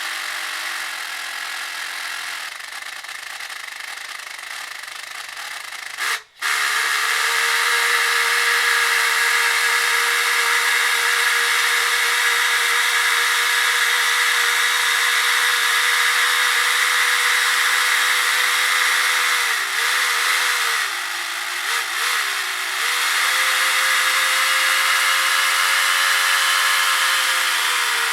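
A small paper model radial engine spun by a small motor, whirring steadily with a high, rattly hiss from the paper parts. The sound cuts out sharply about six seconds in and resumes louder. The pitch wavers briefly twice around two-thirds of the way through and sags slightly near the end.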